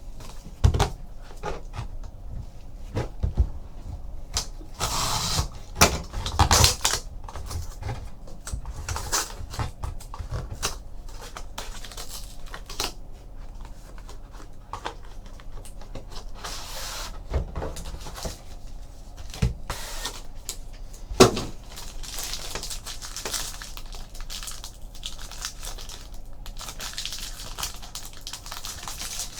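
Trading card boxes and packs being handled and opened: scattered rustles, tears and taps of cardboard and wrappers, with a sharper knock about 21 seconds in.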